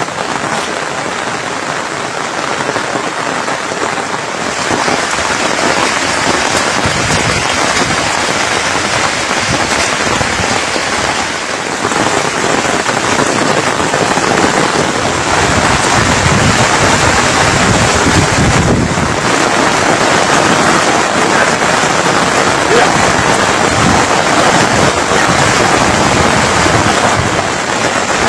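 Heavy rain falling steadily, growing louder about halfway through.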